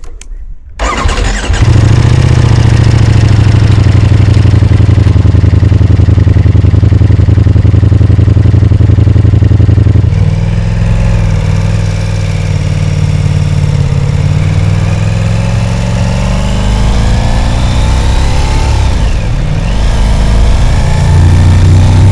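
Ducati Diavel's L-twin engine starting up about a second in, then running loudly and steadily. About ten seconds in the sound changes and its pitch rises slowly, dips briefly near the end, then rises again.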